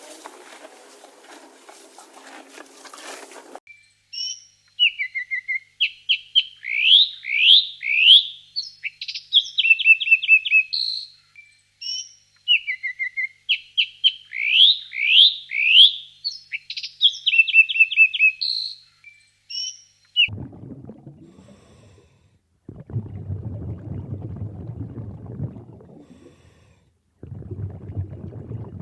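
A bird singing a phrase of quick rising whistles and rapid trills, the whole phrase sung twice. It is framed by other clips: a hissing noise in the first few seconds, and stretches of low rumbling noise in the last third.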